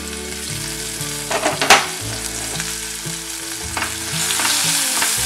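Chopped bell peppers sizzling in a little oil in a stainless-steel kadhai and being stirred with a silicone spatula, with one sharp clank about a second and a half in. The sizzle grows louder over the last second or so.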